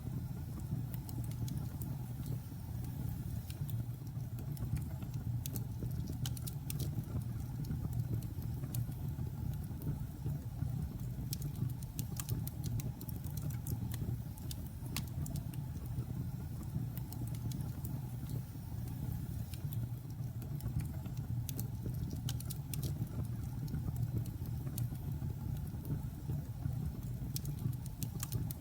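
Logs burning in a fireplace: a steady low rumble of flame with scattered, irregular sharp crackles and pops.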